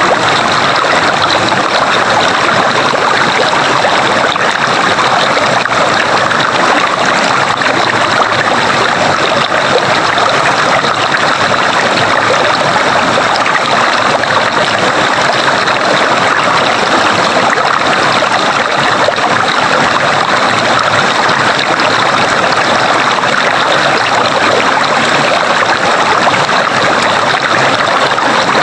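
Water flowing steadily in a stream, an even, unbroken sound of running water.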